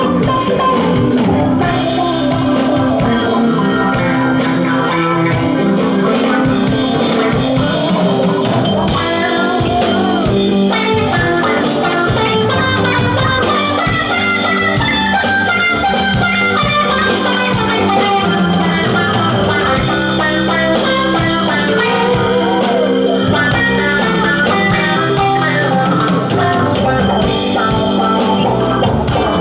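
Live rock band playing an instrumental stretch of the song: a lead electric guitar line weaves over drum kit, bass, rhythm guitar and keys at a steady loud level.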